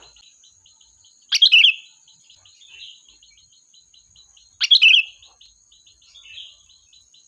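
Sooty-headed bulbul (kutilang) calling: two loud, short bubbly phrases about three seconds apart, with softer calls between them and quick faint ticking. A faint steady high whine runs underneath.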